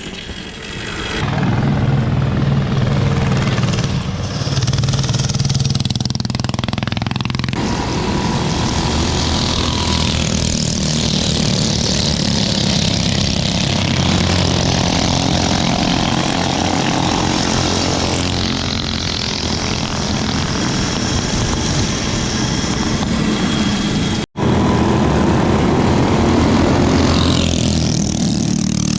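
Small mini bike engines running and revving continuously, loud throughout, with a momentary cut in the sound about 24 seconds in.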